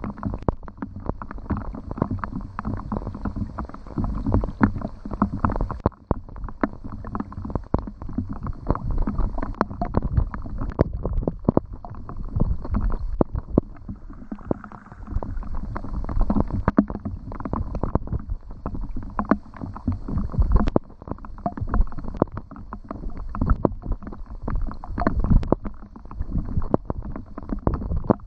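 Rain falling, with many irregular drops landing close by, heavy and low-sounding, in a dense uneven stream.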